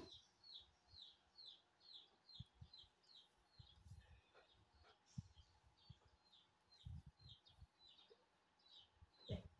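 A bird chirping over and over: short, high, downward-sliding chirps, about two a second, with a few soft low thumps in between.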